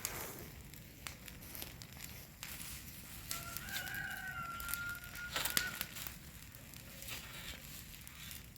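A rooster crows once, a single long drawn-out call starting about three seconds in, over scattered rustling and crackling.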